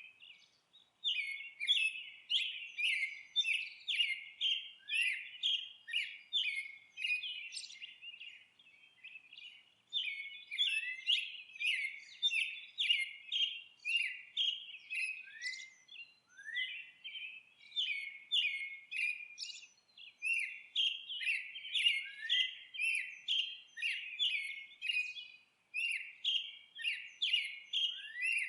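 Birds chirping in a fast, continuous run of short, repeated chirps, several a second, broken by a few brief pauses.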